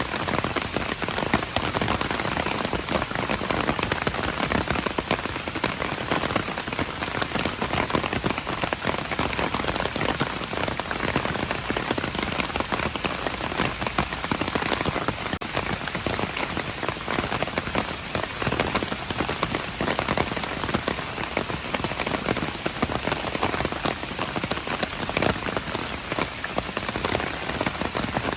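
Steady rain falling on hard surfaces: a dense, even hiss of drops with many small patters and splashes.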